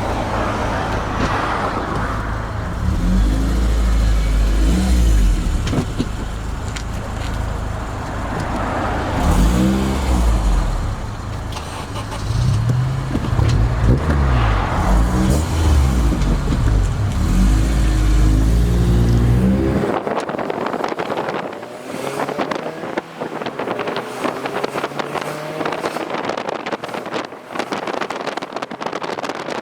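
Car engine and exhaust under way, the revs rising and falling several times as it accelerates and shifts. About two-thirds of the way through the deep rumble drops away, leaving a rough rushing noise.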